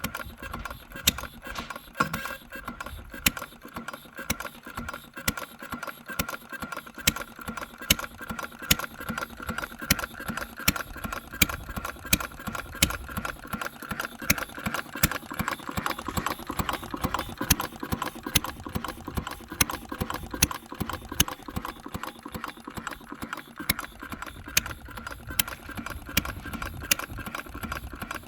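Replica of Henry Ford's 1893 single-cylinder engine running on battery ignition with its timing freshly adjusted, with sharp pops about once a second over a steady mechanical rattle.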